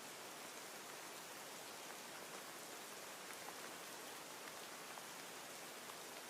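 Steady, soft rain: an even hiss of falling rain with faint scattered drop ticks.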